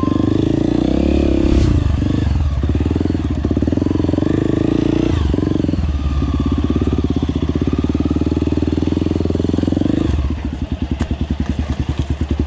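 Honda CRF250F dirt bike's single-cylinder four-stroke engine running under throttle, its pitch rising and falling as the rider works the throttle. About ten seconds in it eases off to a quieter, slower chugging beat.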